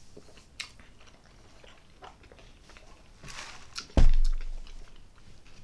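Close-up eating sounds: people chewing hot dog and pizza, with small wet mouth clicks and a brief hiss. A single sharp thump with a deep low end comes about four seconds in and is the loudest sound.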